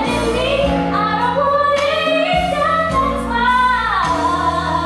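A woman singing a slow, drawn-out melody with long held and gliding notes over a backing track with steady bass.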